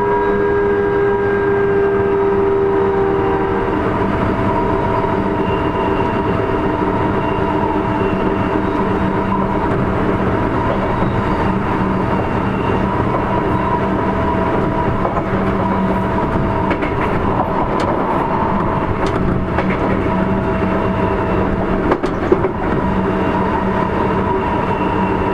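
Sotetsu 8000 series electric train running at speed: a steady rumble of wheels on rail with the steady whine of its Hitachi IGBT-VVVF traction motors. One higher tone stops a few seconds in. Light clicks follow later, with a single sharp knock near the end.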